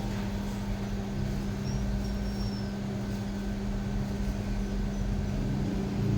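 An engine running steadily: a constant hum with a low rumble beneath it.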